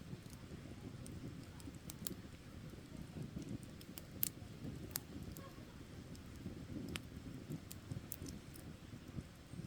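Campfire burning: a low steady rustle of flames with scattered sharp crackles and pops from the wood, the loudest a few seconds in.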